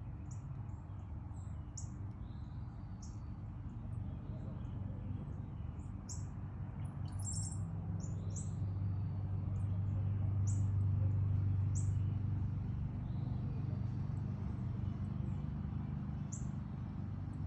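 Backyard songbirds chirping: short, high chirps scattered throughout, over a steady low rumble that swells and fades about halfway through.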